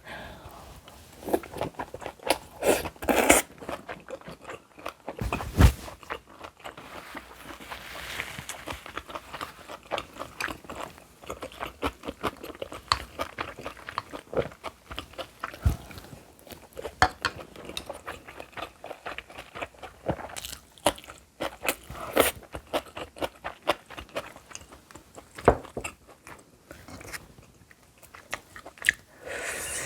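A person chewing a large mouthful of food close to the microphone: many short, irregular mouth and food clicks.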